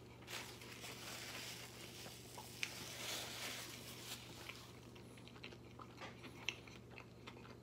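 A mouthful of burrito being chewed with the mouth closed, faint, with scattered small wet clicks of the mouth. A soft rustling hiss runs through the first four seconds or so.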